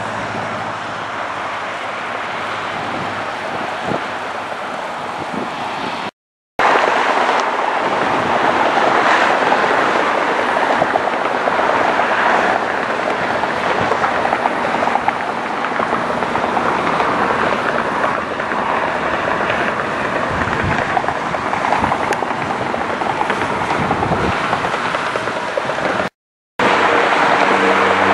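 Airliner jet engine noise from passing aircraft, a steady full rush, heard in three clips joined by two abrupt cuts. The middle clip is the loudest, and the last clip carries a steady low hum of several tones.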